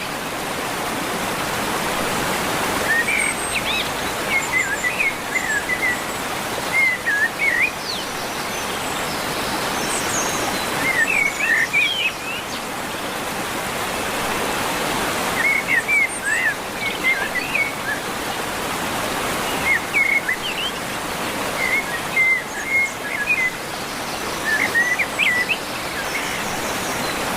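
Birds calling in short bursts of quick chirps every few seconds over a steady hiss.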